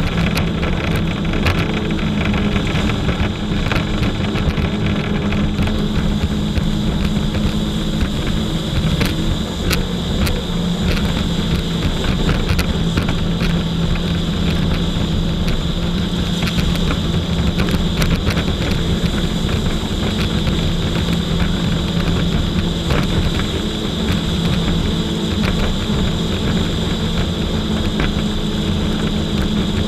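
Jet ski engine running steadily at an even pitch, with scattered short clicks.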